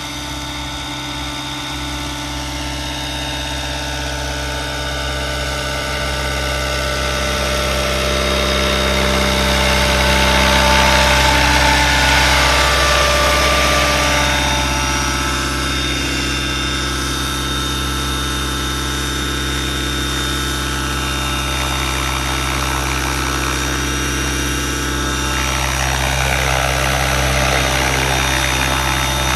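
Electric RC helicopter on Align T-Rex 550e mechanics stretched to 600 size, flying: a steady multi-tone whine of the motor and drivetrain with rotor noise at a constant head speed. It grows louder about ten seconds in, eases, and swells again near the end.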